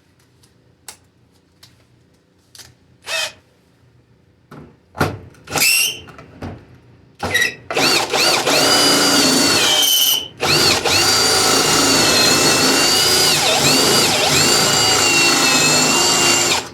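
Electric drill drilling out a spot weld in the Jeep's sheet-steel body. A few short trigger blips come first, then a long steady run with a brief stop near the middle. The motor's whine dips in pitch at moments as the bit loads up in the steel, and it stops suddenly at the end.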